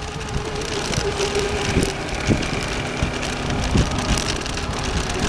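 Radio-controlled model racing boats' motors running steadily across the water, a held mid-pitched drone that drops lower about halfway through, over a rumble of wind on the microphone.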